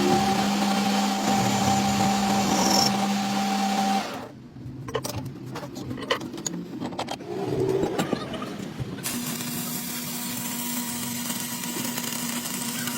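Workshop machine motor running with a steady hum, cutting off about four seconds in. Then a few seconds of scattered metal clinks and knocks, and a machine running again from about nine seconds in.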